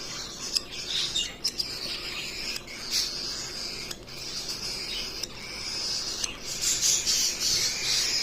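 Cockatiel chattering with rough squawks and chirps, broken by a number of short sharp clicks.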